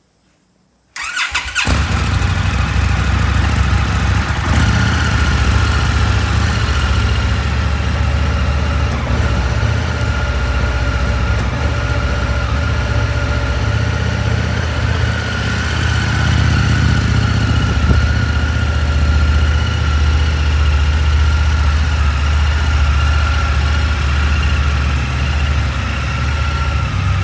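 Indian FTR 2022 motorcycle's V-twin engine starting about a second in, catching quickly and then idling steadily.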